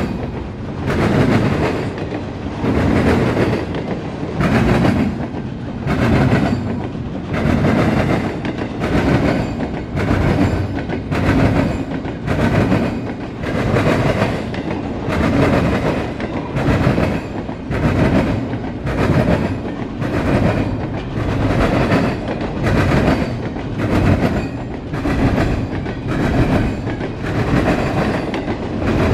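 Freight train of double-stack intermodal well cars passing close by, its steel wheels clattering over the track in a steady clickety-clack. The clatter swells about every two seconds as each car's wheel sets go by.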